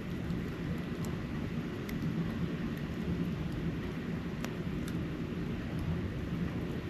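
Outdoor ambience during a snowfall: a steady low rumble with a few faint, scattered ticks.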